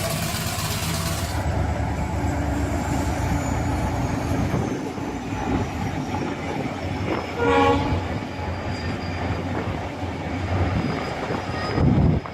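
6-inch scale Samson steam traction engine running, with one short whistle toot about seven and a half seconds in.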